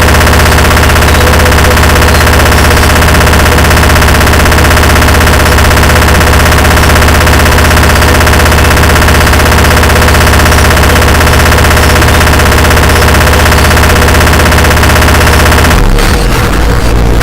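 Harsh noise music: a wall of heavily distorted, clipped noise with a fast rattling pulse that fills the whole range from deep bass to hiss. About a second before the end the texture breaks up into choppier, stuttering bursts.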